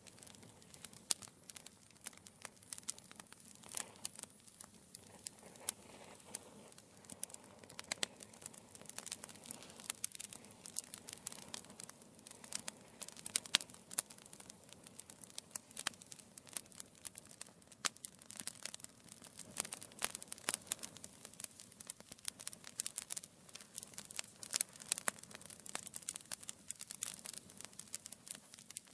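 Wood fire burning in a fireplace, with a low steady hiss and dense, irregular crackles and pops of burning logs.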